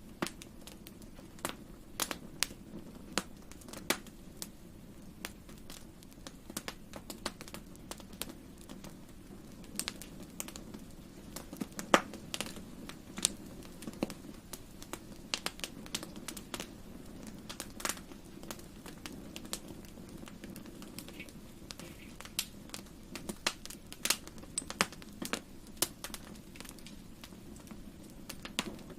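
Wood fire crackling in a fireplace: irregular sharp pops and snaps over a soft steady low rumble of the flames, with one louder pop about halfway through.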